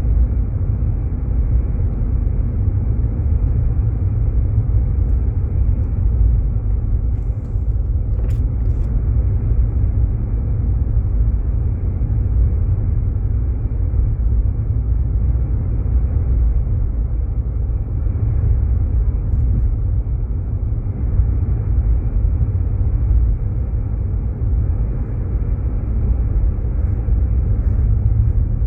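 Steady low rumble of a Jeep Grand Cherokee driving on snow-covered roads: engine and tyre noise, with a single short click about eight seconds in.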